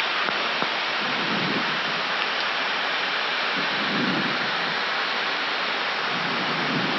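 Steady rushing noise in the flight deck of an Airbus A319 in descent: airflow and cabin ventilation, even in level throughout.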